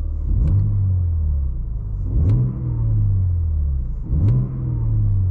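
BMW M3 G80's 3.0-litre twin-turbo straight-six (S58) revved three times from idle, about two seconds apart, each rev rising sharply and falling back, heard from inside the cabin in Efficient mode with M Sound Control on.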